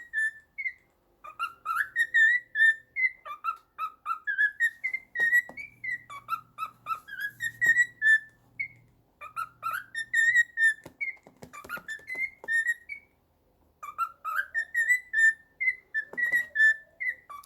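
Cockatiel whistling a learned tune: phrases of clear whistled notes that begin on a few low repeated notes and step up to a higher held note, the phrase repeated about four times with short pauses between.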